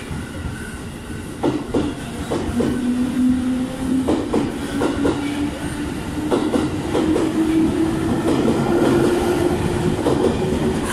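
Electric commuter train pulling out and gathering speed. The motor whine rises steadily in pitch while the wheels click over the rail joints again and again.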